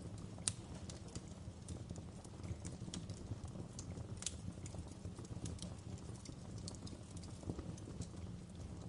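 Wood fire crackling in a fireplace: irregular sharp pops and snaps over a low steady rumble, with two louder pops, about half a second in and near the middle.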